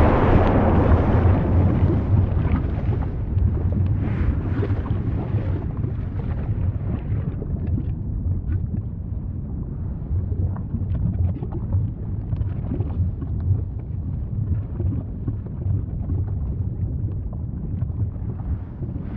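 Volcano rumbling: a deep, steady rumble with scattered crackles, its brighter upper noise dying away over the first few seconds.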